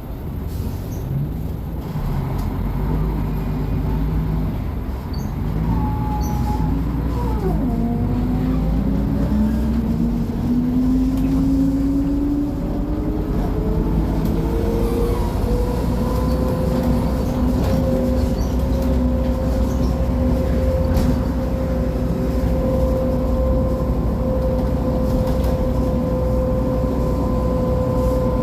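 Mercedes-Benz O500MA articulated bus's diesel engine and ZF Ecomat 6-speed automatic transmission running under a steady low rumble. A whine rises in pitch for about ten seconds, starting about a quarter of the way in, then holds steady.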